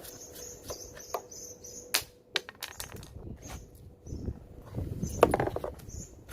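Clicks and a clatter of plastic parts of a split air conditioner's indoor unit being handled and pulled apart, with the loudest rattle about five seconds in. A faint, high chirp repeats steadily underneath.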